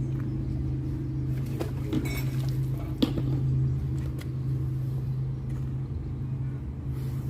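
Steady low engine hum, with a few short knocks and clinks over it, the sharpest about three seconds in.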